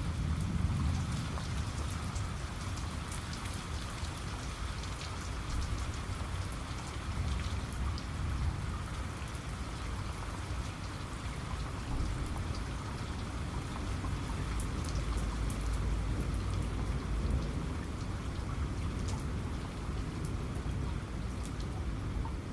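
Steady rain falling: a constant hiss dotted with sharp ticks of individual drops, over a low rumble.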